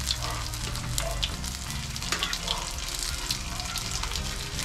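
Dried danggit fish frying in hot oil in a pan: steady sizzling with frequent sharp pops and crackles.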